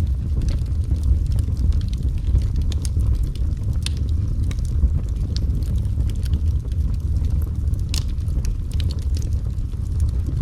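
Wood fire burning in a fireplace: a steady low rumble of flames with scattered sharp crackles and pops, the brightest pops coming about four and eight seconds in.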